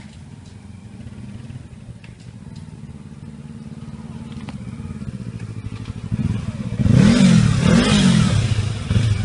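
Motorcycle engine idling and growing louder, then revved twice in quick succession near the end, the pitch rising and falling each time.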